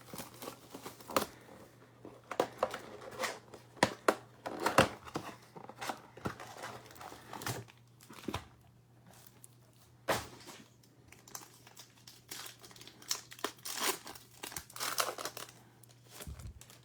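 Trading card pack wrappers crinkling and tearing as packs are ripped open by hand, in irregular rustles and sharp rips.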